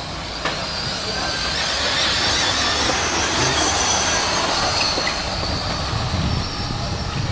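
2WD short-course RC trucks running on the track: a steady high-pitched whine of their electric motors and drivetrains, growing louder about two seconds in and easing off again near the end.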